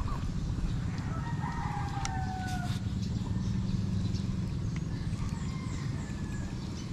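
A rooster crowing, one long falling call about a second in and fainter calls later, over a steady low rumble.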